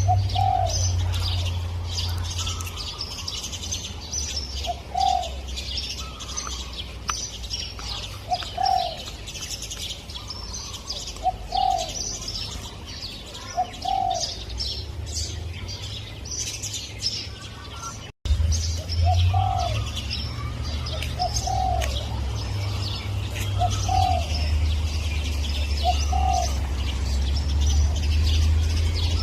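Spotted dove cooing, one short coo about every two and a half to three seconds, over many small birds chirping high and continuously and a steady low rumble. The sound drops out for an instant a little past the middle.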